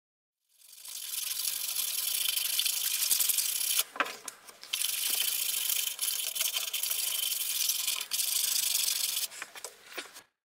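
Sandpaper rubbed back and forth over the gasket face of a cylinder head, wet with engine oil, making a steady scratchy hiss. It breaks off briefly about four seconds in and stops near the end.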